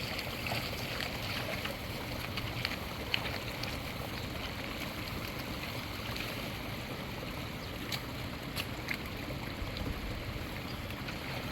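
Steady rush of moving water, with scattered faint clicks.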